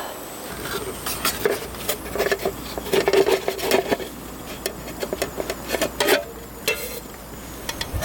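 Irregular metal clinks, knocks and scraping of a camping mess tin and utensils being handled, as the whole chicken cooked inside is taken out.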